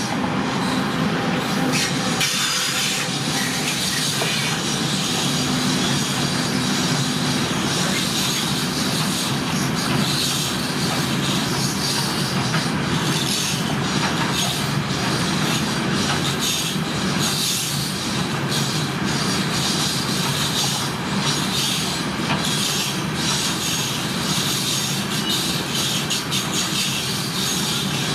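A train rolling past, with steady wheel-and-rail running noise and many quick clicks as the wheels cross rail joints.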